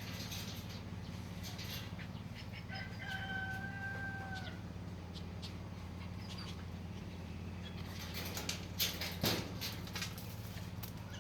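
An animal's single long call, held at an even pitch for about two seconds, starting about three seconds in over a steady low hum. A few sharp knocks follow near the end.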